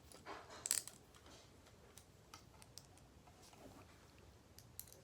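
Light clicks and a short rattle of small metal parts being handled during the first second, then a few scattered faint ticks, as butterfly knife trainer parts and screws are worked.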